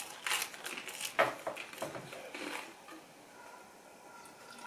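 A scatter of small clicks and taps from eating and handling food, fading to quiet in the last second or two.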